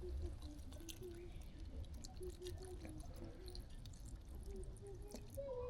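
Faint distant voices over a low steady rumble, with scattered small clicks.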